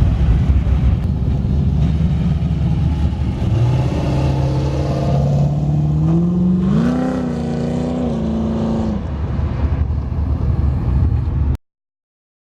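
A car engine running with a heavy low rumble, revving up in steps so its pitch climbs and holds before easing off. The sound cuts off suddenly near the end.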